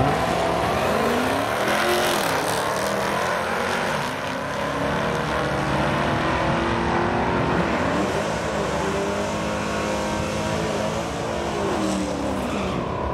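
Modern HEMI V8 drag cars running at full throttle, the engine pitch climbing and dropping again several times, as through gear changes on a quarter-mile pass.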